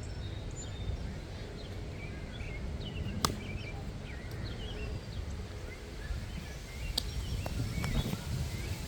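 Wind rumbling on the microphone with birds chirping throughout. Two sharp clicks, the louder about three seconds in and another about seven seconds in.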